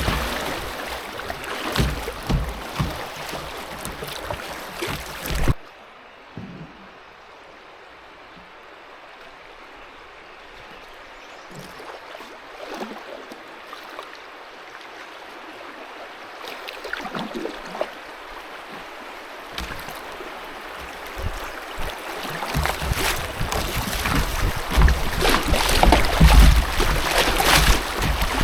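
Rushing river water around a moving canoe. It drops off abruptly about five seconds in to a quieter steady flow, then builds back up to loud rushing water over the last several seconds.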